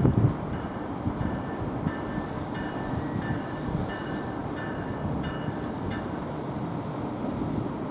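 Train on the North Jersey Coast Line rolling through, a steady low rumble of wheels on rail with a louder surge at the very start. Faint short high-pitched tones come and go until about six seconds in.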